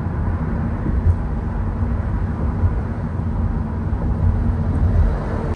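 Car driving: a steady low rumble of road and engine noise that stops abruptly at the very end.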